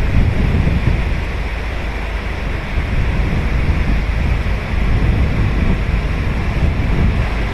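Ocean surf on a sandy beach: waves breaking and washing in one after another, a steady roar of water with a heavy low rumble that swells gently.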